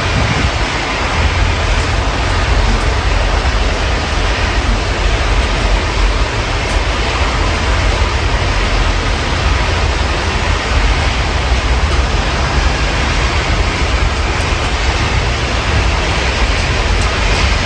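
Steady rain heard through an open window: a constant even hiss with a low rumble underneath, with no single drips or knocks standing out.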